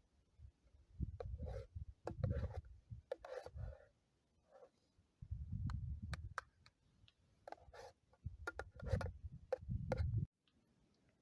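A utensil scraping and clicking against a dish of campfire-cooked potatoes in irregular bursts, with dull low rumbling handling noise. It all cuts off abruptly near the end.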